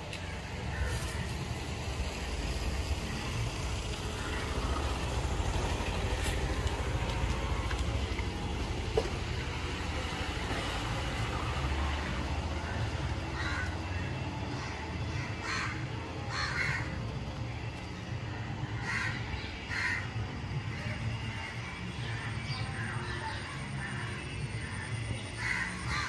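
Birds calling in short, repeated notes, more often in the second half, over a low steady rumble.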